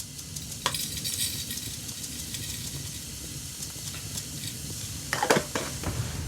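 Food sizzling in a pan on a wood stove, steady throughout, with a utensil clinking against the pan about a second in and a few louder scraping clinks near the end.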